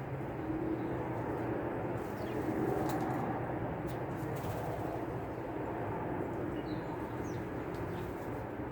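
Steady low outdoor rumble, with a few faint, short, high bird chirps over it.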